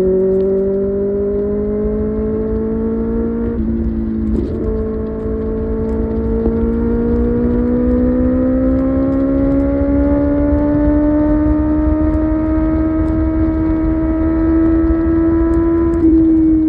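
Kawasaki ZX-6R's inline-four engine running under way at highway speed, with a low rumble beneath it. The note breaks briefly about three and a half seconds in and again near the end, and between those breaks its pitch climbs slowly as the bike gathers speed.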